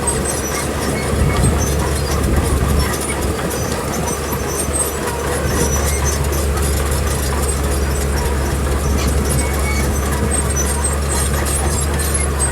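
Komatsu crawler bulldozer's diesel engine running steadily with a deep drone while it works.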